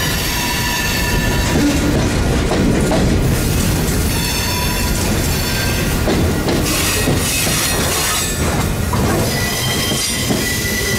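Freight train cars rolling past at close range: covered hoppers and boxcars make a steady rumble of steel wheels on rail. A high wheel squeal comes and goes several times over it.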